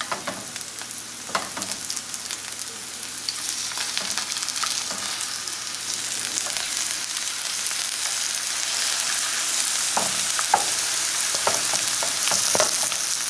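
Maitake (hen of the woods) mushroom pieces sizzling in butter and oil in a nonstick frying pan, the sizzle growing louder over the seconds. A spatula scrapes and taps the pan now and then as it turns them, in a cluster near the end.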